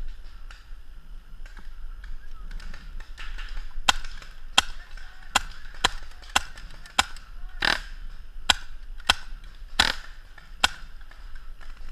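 Paintball markers firing: a string of sharp single shots, sparse at first and then coming irregularly about one or two a second from about four seconds in.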